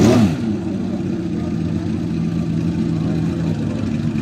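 Z2600 V12 engine given one quick throttle blip at the start, then idling steadily.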